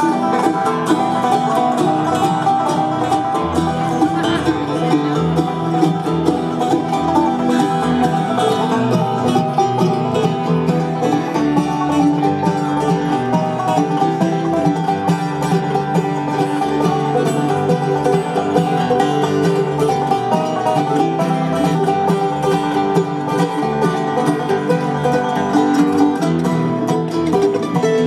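Live bluegrass band playing an instrumental passage, with banjo rolls and acoustic guitar over a steady bass pulse.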